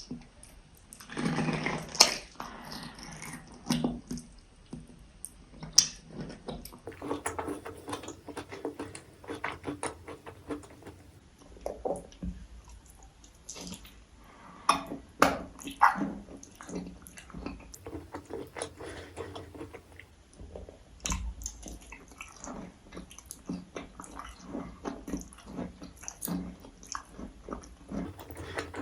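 Close-miked eating: a person chewing and biting food, with many short, wet mouth clicks. A louder, noisier stretch lasts about two seconds, starting a second in.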